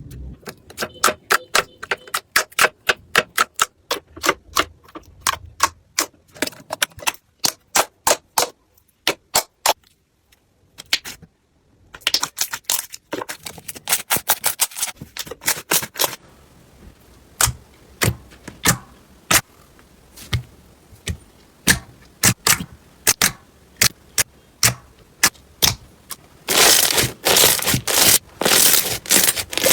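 Crunchy slime being squeezed and poked, giving runs of sharp clicks and pops, with a denser crackling crunch near the end.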